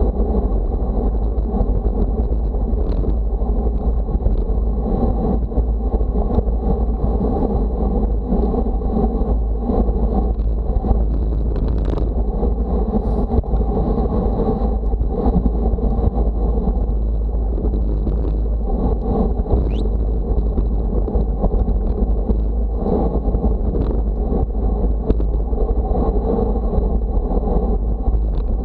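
Steady, loud rumbling noise of travel, like a vehicle's run or wind buffeting a moving microphone, continuing without a break, with a faint high steady tone and a few light clicks.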